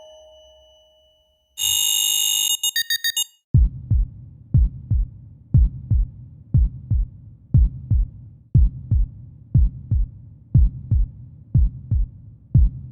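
A bright electronic alarm beep that ends in a few quick pulses. Then a heartbeat sound effect starts: a low double thump, lub-dub, about once a second, repeating steadily.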